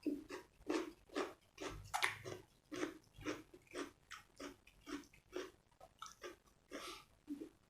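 A person chewing food close to the microphone, at a steady rhythm of about two chews a second.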